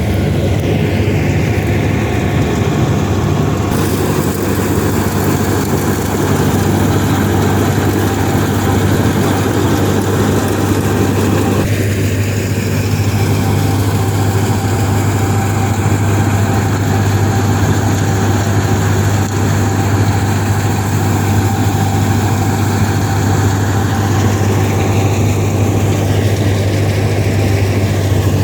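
Engine of wheat-harvest farm machinery running steadily at a constant low hum, with abrupt changes in tone about 4 and 12 seconds in.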